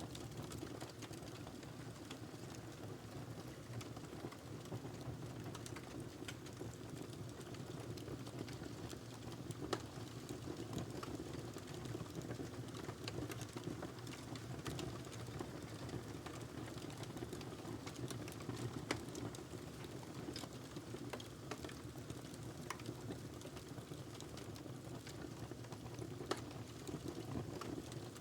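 Wood fire burning in a fireplace: a steady low rush of flame with scattered sharp crackles and pops from the burning log.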